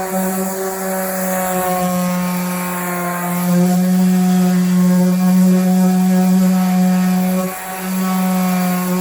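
Electric power sander with coarse 40-grit paper running steadily, stripping lifted epoxy paint off a boat. It is a steady motor hum that gets louder about a third of the way in and drops off for a moment near the end.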